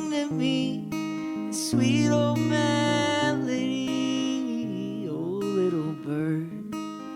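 Acoustic guitar playing a slow song, with a wordless melody voiced in gliding notes over it.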